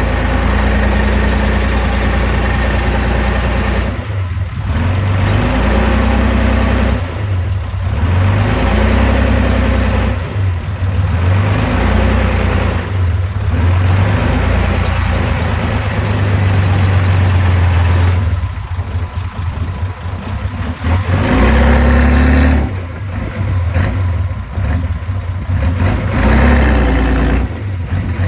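Komatsu D31P bulldozer's diesel engine working under load, its note pulling down and picking up again every few seconds as the machine pushes.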